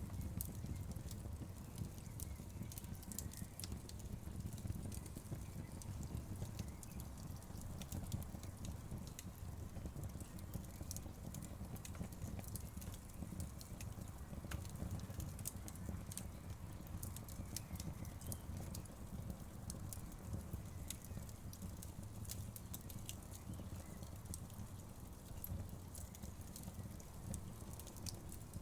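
Crackling wood fire: a steady low rumble of flames with frequent sharp pops and snaps at irregular intervals.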